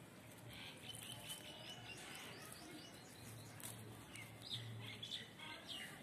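Birds chirping and twittering softly in quick, repeated short notes and rapid trills, in two spells.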